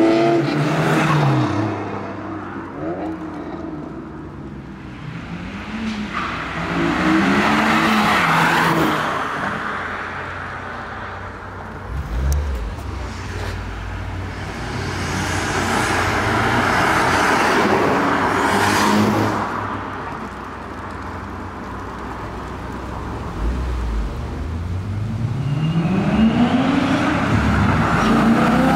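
Several cars driving past one after another, each engine note rising as the car accelerates, the noise swelling and fading with each pass.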